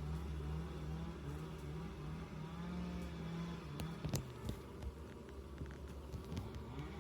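Honeybees buzzing at a hive entrance: many overlapping wavering hums, with individual bees flying close by, their pitch rising and falling. A few sharp clicks about four seconds in.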